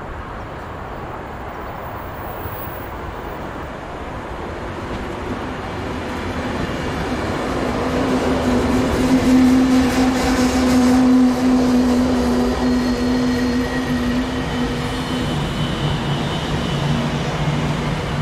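A train approaching and passing on the line. The rumble builds over several seconds and is loudest about halfway through, with a steady hum through the middle and a lower hum near the end.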